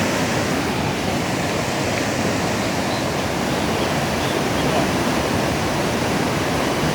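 Steady rush of heavy rain and storm runoff water pouring along the street, an even, unbroken noise.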